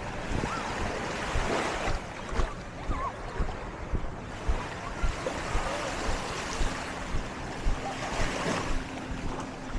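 Surf washing onto a sandy beach, with wind buffeting the microphone. A faint steady hum comes in about six and a half seconds in.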